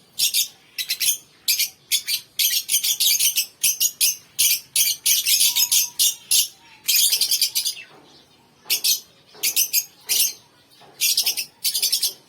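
Small pet birds chirping in quick, rapid-fire bursts of high chatter, with short pauses between the bursts.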